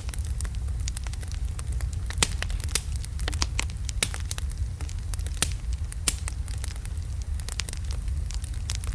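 Wood fire of large burning logs crackling, with irregular sharp pops and snaps over a steady low rumble of the flames.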